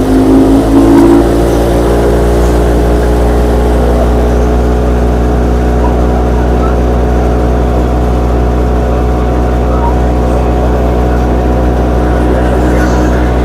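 Tractor engine running steadily under load, driving a wheat thresher, with a strong low hum; its pitch climbs slightly in the first second or so, then holds steady.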